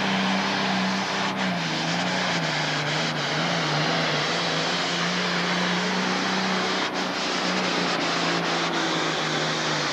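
Pro stock pulling tractor's diesel engine running hard at high revs, a steady loud drone that wavers slightly in pitch.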